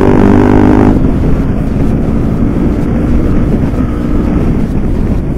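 Honda CBR150R facelift's single-cylinder engine through a loud aftermarket exhaust, held high in the revs and then dropping about a second in to a lower, steady pull while riding, with wind on the microphone.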